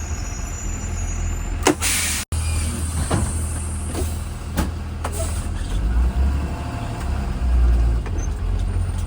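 Low, steady engine and road rumble heard from inside a 2020 Blue Bird Vision school bus while it drives, with a short burst of hiss about two seconds in and a few scattered rattles afterwards.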